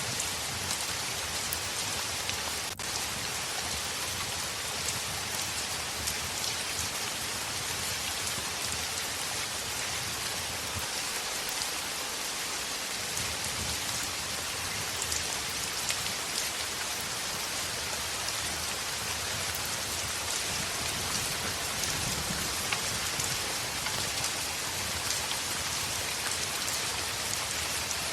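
Heavy rain pattering on a window pane, a steady dense hiss with scattered small ticks of individual drops.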